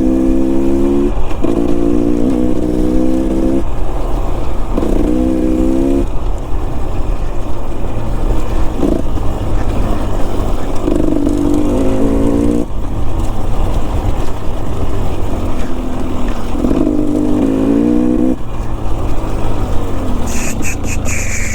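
Enduro dirt bike engine climbing a steep, rocky trail, blipped in short bursts of throttle, its note rising a little with each burst, over a constant low rumble. A few sharp ticks near the end.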